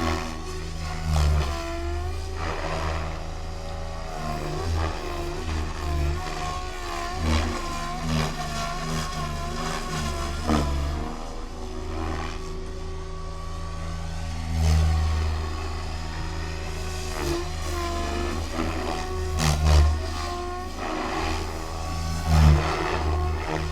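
Electric SAB Goblin 630 RC helicopter flying, its motor and drivetrain whine rising and falling in pitch as the head speed and collective change. Rotor-blade noise swells loudly every few seconds.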